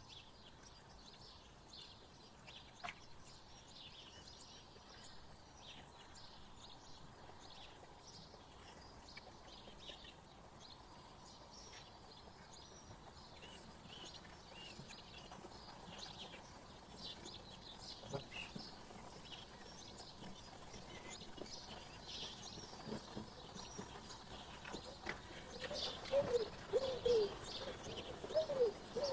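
Small songbirds chirping faintly with short, high notes throughout. Near the end a dove starts cooing in a run of low, repeated calls that are the loudest sound.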